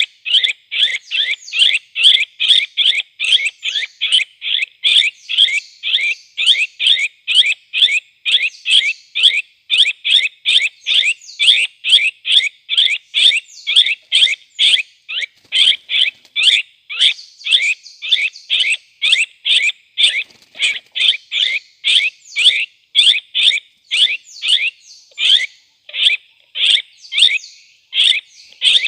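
Cucak kopi calls: a short, pitched call repeated evenly at about three a second without a break, used to lure the birds to a birdlime trap.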